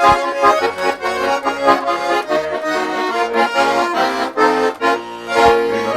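Russian garmon (button accordion) playing an instrumental passage of a folk song tune, a quick-moving melody over low bass notes.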